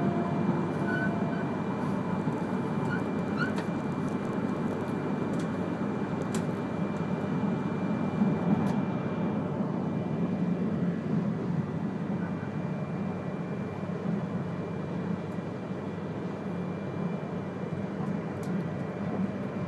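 Running noise heard inside the passenger cabin of an E3-series Komachi Shinkansen train: a steady rumble of the train rolling along the track, with a faint steady high tone above it and a few faint ticks.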